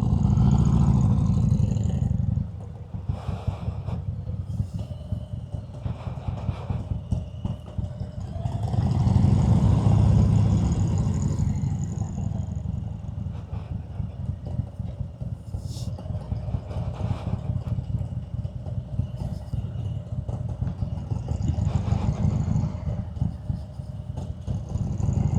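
Harley-Davidson Road King's Milwaukee-Eight V-twin running at low speed in slow traffic, a pulsing low rumble that swells louder at the start, about nine seconds in and again near the end as it is throttled up.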